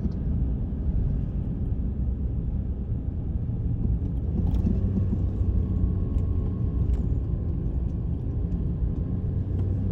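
Pickup truck driving along a road, heard from inside the cab: a steady low rumble of engine and tyres.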